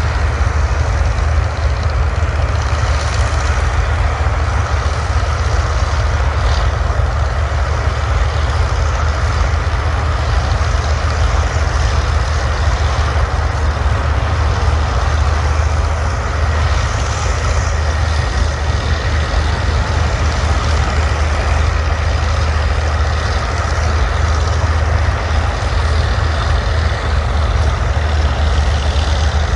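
Heavy diesel engine running steadily with a deep, constant rumble.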